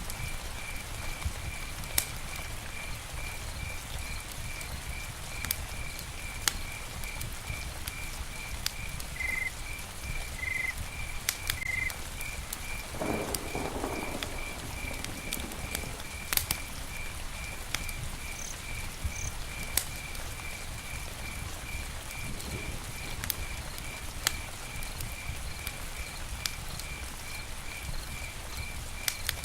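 Campfire crackling, with sharp pops every second or two over a low steady rumble, while a cricket chirps steadily about three times a second. A brief lower animal call is heard about 13 seconds in, and a few short higher calls come near the middle.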